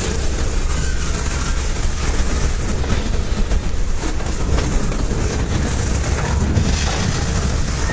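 Freight train of covered hoppers and centerbeam lumber flatcars rolling past: steady rumble of steel wheels on the rails with repeated clacking as the wheels cross rail joints.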